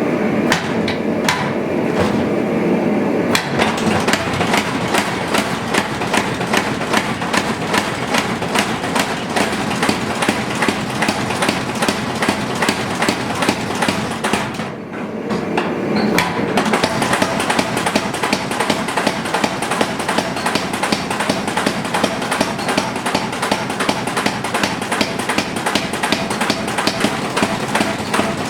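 Steel being forged under a hammer, with rapid, even blows several a second. The blows stop briefly about halfway through, then start again.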